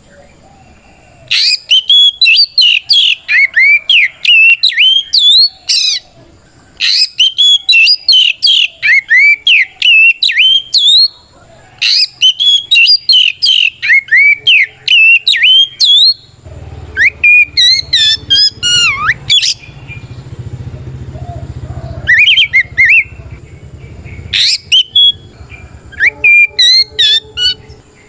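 Oriental magpie-robin singing loud, rapid, whistled phrases in bursts of a few seconds with short pauses between: the full challenging song that calls out a rival. A low rumble sits under the song for several seconds past the middle.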